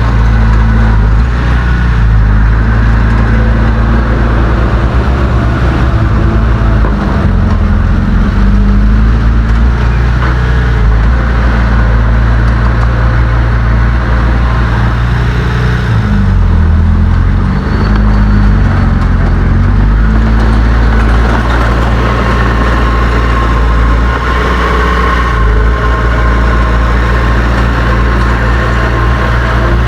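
Heavy diesel engine of earthmoving machinery running loudly and steadily, its pitch changing under load about a quarter of the way in and again around the middle.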